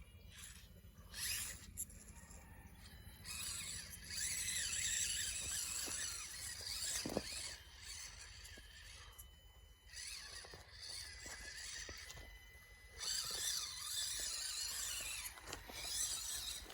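Small RC truck's motor and gears whining at high pitch in repeated throttle bursts of a few seconds each, swelling and fading as it is driven through mud.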